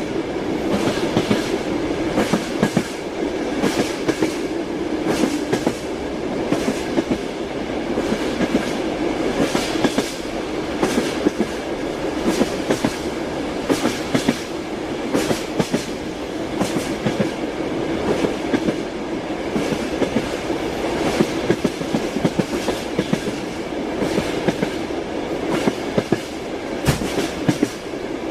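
Train wheels knocking over rail joints in a repeated clickety-clack, sharp clicks in uneven groups over the steady rumble of the moving train.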